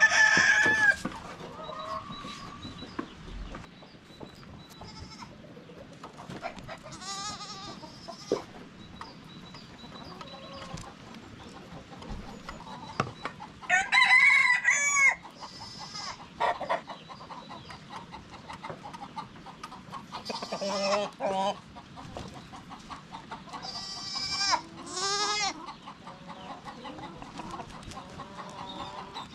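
Chickens clucking, with a rooster crowing several times, each crow a loud pitched call lasting a second or more.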